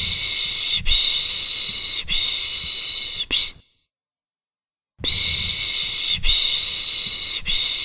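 A person shushing a baby with the soothing 'piş piş' sound: three long 'shh' sounds of about a second each and a short one, a pause of over a second, then the same pattern again.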